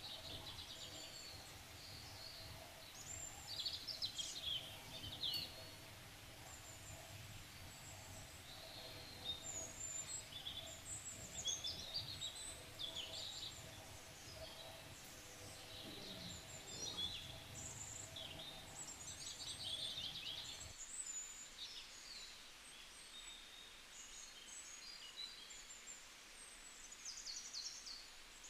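Small birds chirping and twittering in short, repeated phrases, over a low steady hum that cuts off abruptly about three-quarters of the way through.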